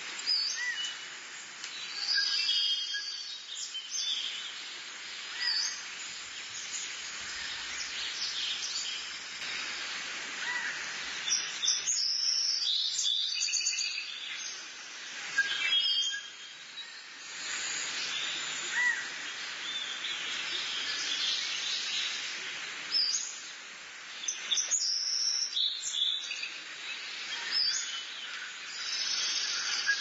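Birds chirping and calling in many short notes and quick trills over a steady background hiss.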